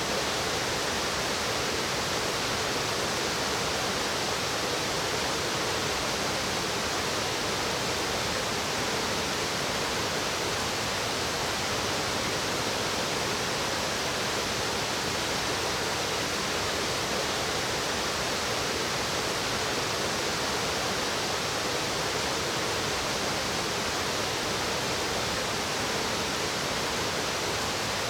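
Rushing water of a mountain stream, a steady, even rush with no break.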